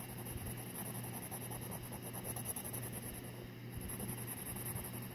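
Faint scratching of a dampened watercolour pencil tip being worked across the drawing surface, over a steady low hum.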